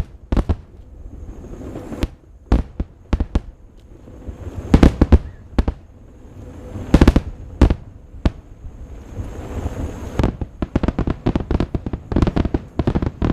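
Aerial fireworks shells bursting: single loud bangs and short clusters of bangs a second or two apart, then from about ten seconds in a dense, rapid volley of crackling reports.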